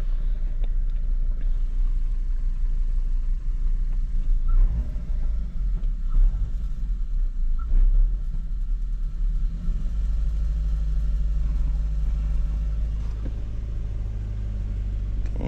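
Kia Forte GT's turbocharged 1.6-litre direct-injection four-cylinder running with a low rumble, given a few short throttle blips about four to eight seconds in, then settling to a steadier idle. It is burning off intake-valve cleaner just sprayed through the intake.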